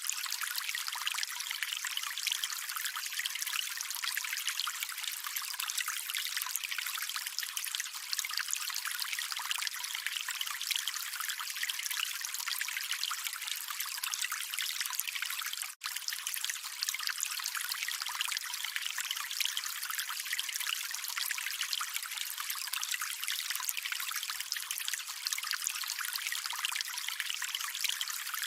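Water trickling and splashing in a steady, thin, hissy wash with no bass, cutting out for an instant about halfway through.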